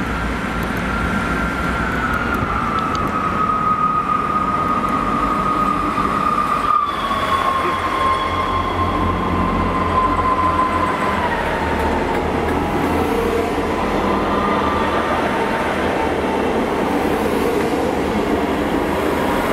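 Great Western Railway diesel multiple unit running into the platform and slowing: a steady rail rumble with a whine that steps down in pitch several times as the train slows.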